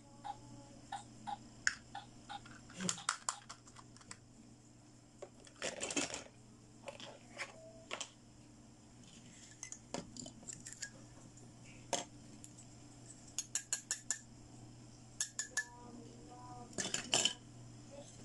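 Pink plastic toy doctor-kit pieces being picked up and set down on a table: light clicks and clatters, some in quick runs of several taps.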